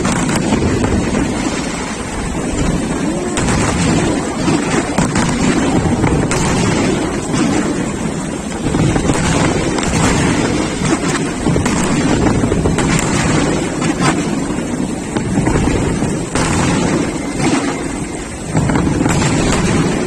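Wind buffeting the microphone: a loud, continuous rumble, with several brief sharp cracks through it.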